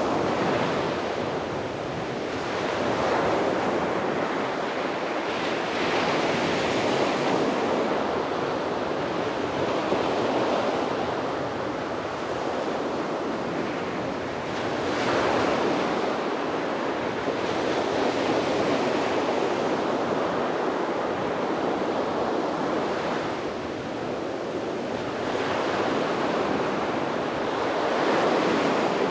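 Sea waves breaking and washing up on a beach, a continuous surf rush that swells and eases every few seconds as each wave comes in.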